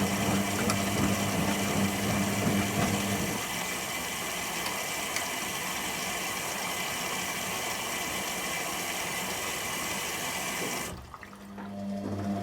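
Candy Aquamatic 100F washing machine filling with water for its first rinse: a steady hiss of water running in, with a low motor hum that stops about three seconds in. Near the end the inflow cuts off suddenly and the motor hum starts again.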